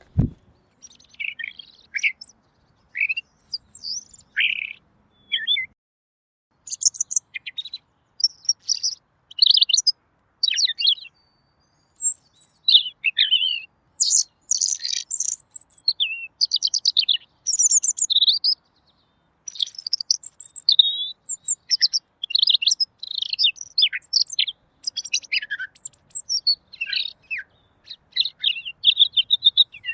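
Pekin robin (red-billed leiothrix) singing a clear, rapid warbling song in short, varied phrases. The phrases come almost without pause in the second half.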